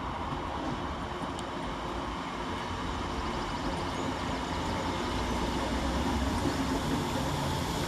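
ScotRail Class 320 electric multiple unit running on the line through the station: a steady rumble of wheels and traction with a faint hum, slowly growing louder.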